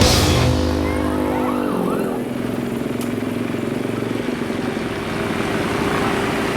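An engine's steady note, drops in pitch about two seconds in, then holds level.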